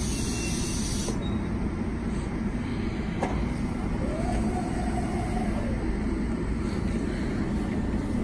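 Metro-North M7A electric multiple-unit train moving along the station platform, a steady low rumble of wheels and running gear close by.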